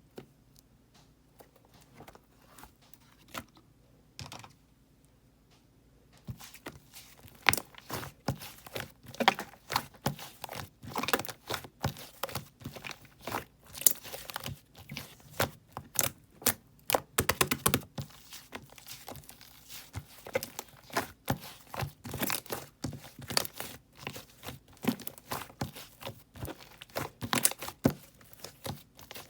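Pink-and-black clay slime being squished, pressed and stretched by hand, making dense, irregular sticky crackles and pops. Only a few faint clicks come before the handling picks up about six seconds in.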